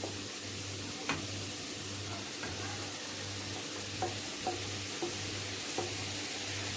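Chopped capsicum being scraped off a steel plate with a wooden spatula into a pan of vegetables sautéing in butter: a steady sizzle with a few light taps of the spatula on the plate.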